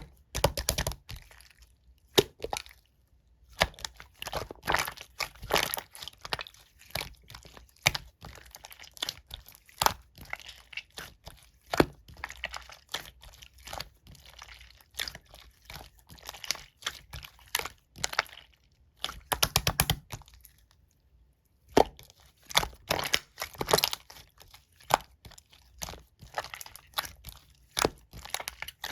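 Slime being squished, folded and pulled by hands, making dense crackling, clicking and popping sounds, with two short pauses, about three seconds in and about twenty-one seconds in.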